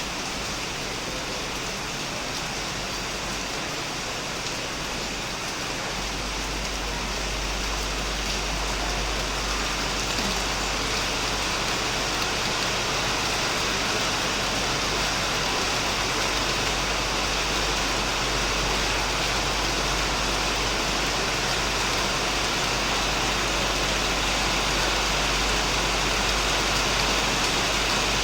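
Heavy rain falling steadily on a shed and plants, an even dense hiss. About six seconds in, a deep low rumble sets in underneath and continues.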